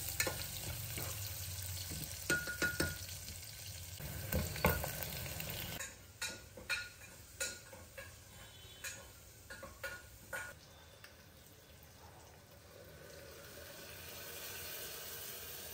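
Sliced onions and whole spices sizzling in ghee in a pressure cooker, with a metal spoon stirring and scraping against the pot. About six seconds in, the sizzling stops abruptly, leaving scattered light clicks and knocks.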